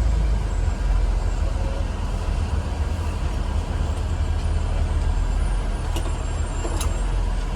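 Blue Bird Vision school bus running, heard from inside the bus: a steady low engine rumble with road noise, and two faint clicks near the end.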